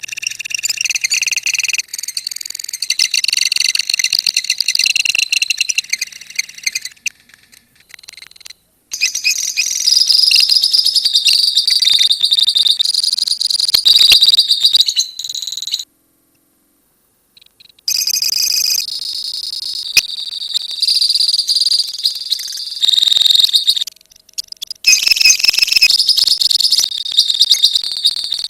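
A colony of lovebirds chattering in long, rapid, high-pitched trills (the 'ngekek' call), in stretches of several seconds broken by short gaps.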